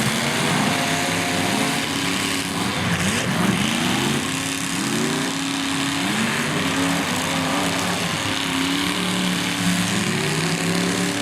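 Demolition derby car engines running and revving, several at once, their pitch repeatedly rising and falling.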